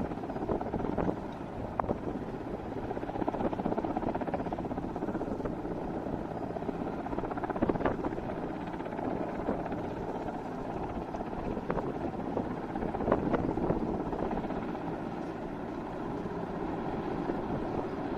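Mi-17 V5 military helicopter running, a steady rotor and turbine drone heard from a distance, with a few brief sharp peaks.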